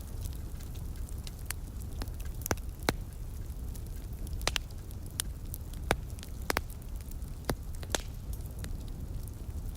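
Wood fire burning in a fireplace: irregular sharp crackles and pops, a few louder snaps among them, over a steady low rumble.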